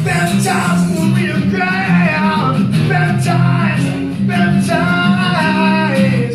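Live acoustic rock song: a man's voice singing long, wavering notes without clear words over strummed acoustic guitar chords. The song ends at the very end.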